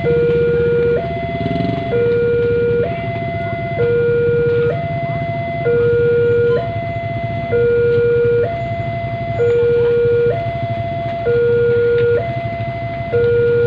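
Two-tone siren alternating between a low and a high note, each held about a second, repeating evenly over a low vehicle rumble.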